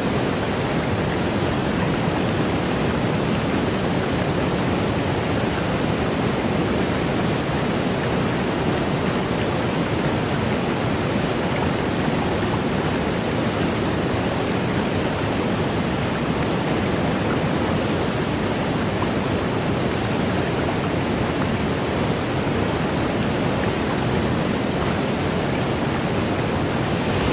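Waterfall roaring: the steady, even rush of a large mountain waterfall's falling water, unchanging throughout.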